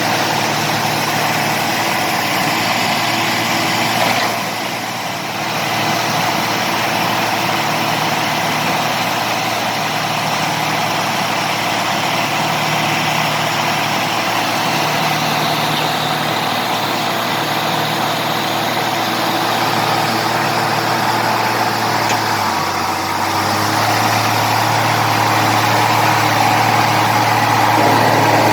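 Heavy diesel engine of earthmoving machinery running steadily. The sound dips briefly about four seconds in, and after about twenty-two seconds the low engine note shifts and grows a little louder.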